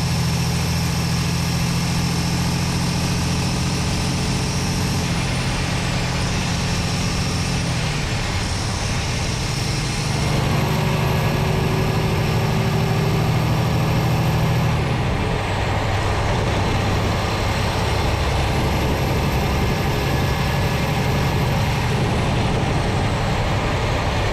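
Paccar MX-13 inline-six diesel engine of a Peterbilt 389 running under way, heard from inside the engine bay. The engine note steps to a new pitch several times as speed and load change, with a faint high whistle rising and falling.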